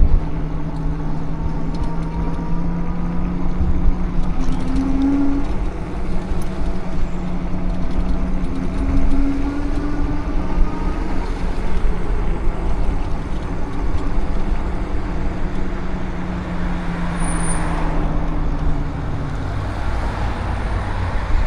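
Street traffic: a steady motor vehicle engine hum with slow pitch glides over a heavy low rumble. A brief high squeal comes near the end.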